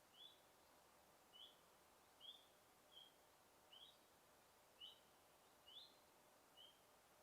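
A single bird repeating a short, high chirp about once a second, eight times over, against a faint steady forest hiss.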